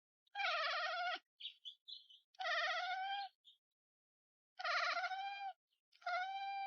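An animal calling four times, each call a long wavering cry of under a second, with a few short high chirps between the first two.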